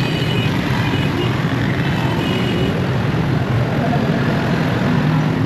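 Steady road noise of a moving motorcycle: a low engine rumble under wind rushing over the microphone, with traffic around.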